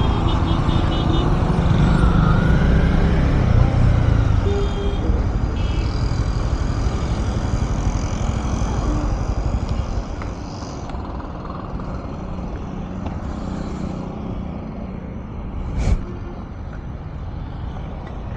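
Honda CB300R single-cylinder motorcycle being ridden, engine and road noise heard from the rider's position as a steady roar that drops in level about ten seconds in. A short sharp click comes near the end.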